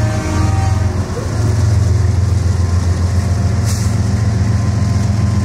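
Intermodal freight train accelerating past, its cars carrying highway trailers rolling by with a steady low drone from the diesel locomotives' engines under load. A brief high-pitched squeal comes about two-thirds of the way through.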